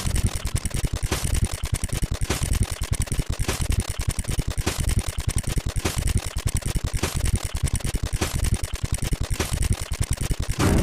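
Rapid, dense stream of counter-tick sound effects, far too fast to count, with a louder stroke about once a second and low thuds underneath.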